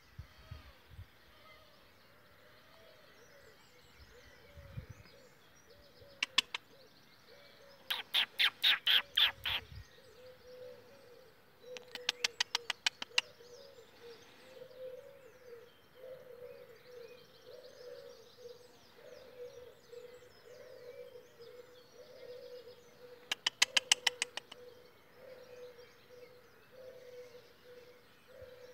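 Birds calling: several loud bursts of rapid, harsh chattering notes, about six a second, over fainter continuous birdsong.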